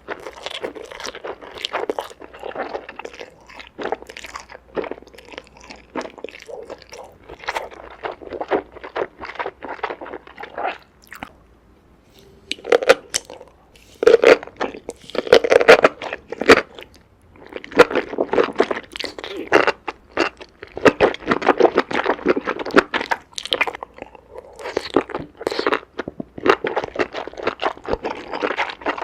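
Close-miked eating sounds: someone biting and chewing crunchy food, with dense, irregular crunching. There is a short lull about halfway through, then the crunching comes back louder.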